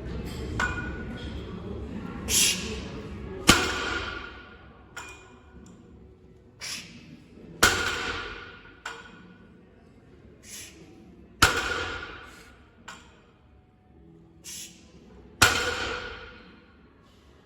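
Loaded barbell with metal plates set down on the floor four times, about every four seconds. Each is a sharp clank that rings on and fades, preceded about a second earlier by a short hissing sound.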